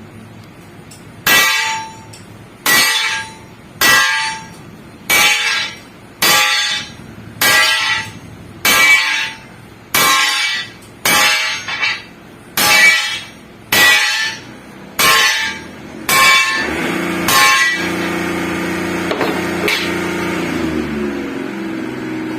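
A hammer striking a steel truck spring with ringing metallic clangs, about fifteen even blows a little over a second apart. Near the end the blows stop and a steady machine hum comes in.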